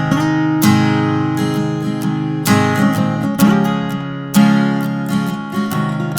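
Acoustic guitar strumming chords, each strum left to ring. There are four strong strums, about a second and a half to a second apart, with lighter strokes between them.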